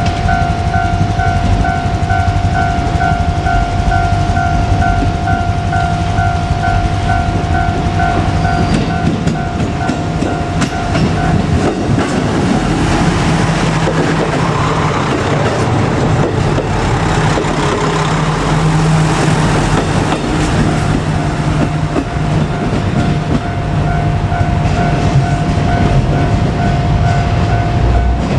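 Japanese level crossing alarm ringing with rapid, even dings. A JR Kyushu KiHa 200 diesel railcar passes through the middle: its diesel engine hums and its wheels rattle on the rails, drowning out the bell, which is heard again near the end.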